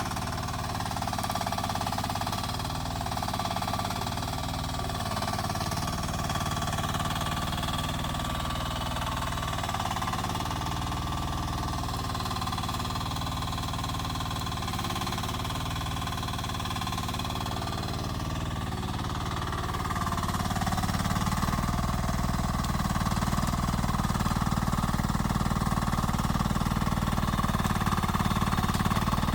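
Rippa R10 mini excavator running steadily with a whine from its hydraulics, getting louder about twenty seconds in as the machine works harder.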